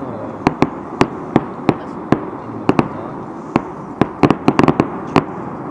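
Fireworks display: aerial firework shells bursting in a string of sharp, irregular bangs and cracks, with a quick cluster about four to five seconds in, over steady background noise.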